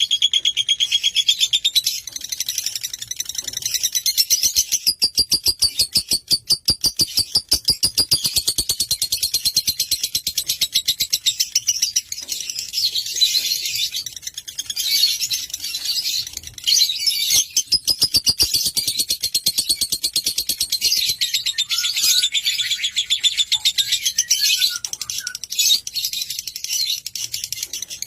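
Lovebird singing a long, loud, high-pitched chattering trill of rapid repeated notes, with a few short breaks.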